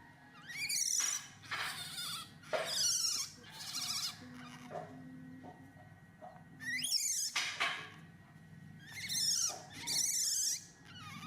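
Baby monkey crying with a string of high-pitched squeals, one every second or so, with a longer pause about halfway through.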